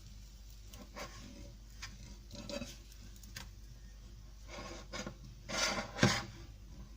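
Spatula scraping and knocking against a frying pan in short strokes, with a louder run of scrapes about five and a half seconds in.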